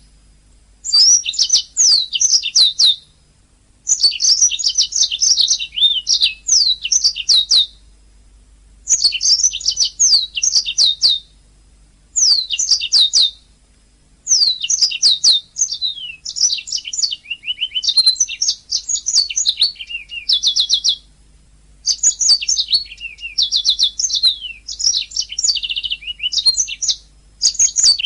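Domestic canary singing: bursts of fast trills and quick downward-sweeping notes, each a second or two long, broken by short pauses, over a faint low hum.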